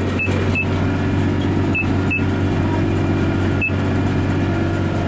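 Tractor engine running steadily while pulling a round baler, with short high beeps from the baler's control box, twice in quick pairs and then once: the signal that the bale is ready to be wrapped.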